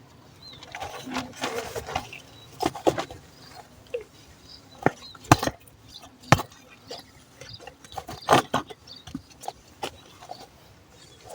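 Irregular sharp knocks and clicks with a few short bursts of rustling, the loudest knocks about five and six seconds in.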